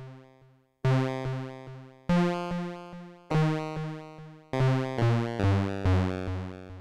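Little Monster VCO square-wave synth voice playing a sequence of short notes at changing pitches, about two to three a second. Each note starts sharply and fades, with two brief silent gaps between phrases. Its pulse width is modulated by an Anvilope envelope.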